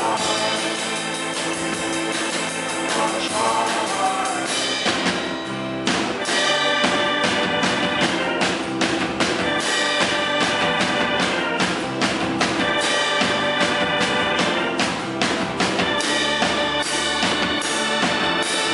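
Indie rock band playing live, a passage with no transcribed lyrics. Sustained chords open it, and about five seconds in the drums come in and keep a steady beat under the chords.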